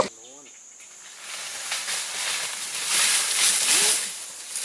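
A breathy hiss that swells from about a second in and fades near the end.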